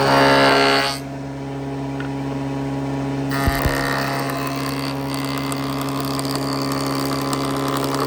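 A workshop machine running with a steady hum, louder and fuller for about the first second, with two short knocks about three and a half seconds in.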